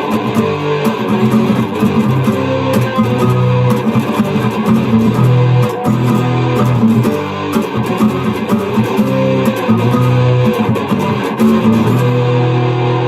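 Guitar playing that mixes plucked notes with sharp percussive knocks struck on the guitar. The knocks stop about a second before the end, leaving the notes ringing on.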